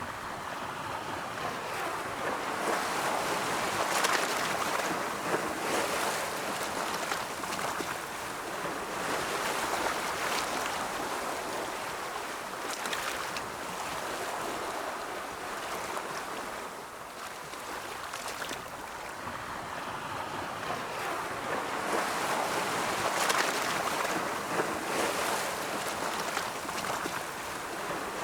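Ocean waves rolling in and breaking on the shore: a continuous wash of surf that swells, peaking around four seconds in and again near the end, and eases off in between.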